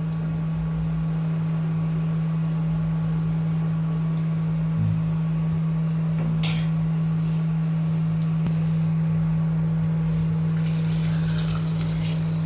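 Eggs frying in a covered pan on the stove: a steady low hum under a faint sizzle, with a little more hiss near the end.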